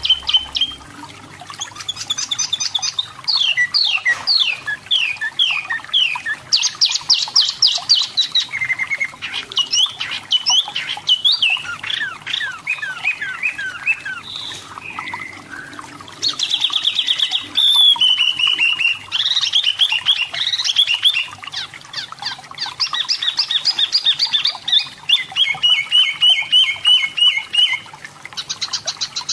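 Pin-striped tit-babbler (wambi mini) singing a varied, unbroken song of quick chattering runs of repeated notes and falling whistled sweeps.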